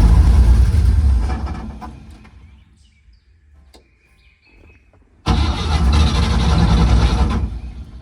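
1950 Chevrolet 4400's Stovebolt inline-six engine in two start attempts. Each burst starts suddenly and dies away after about two seconds, the engine short of fuel in the carburetor bowl.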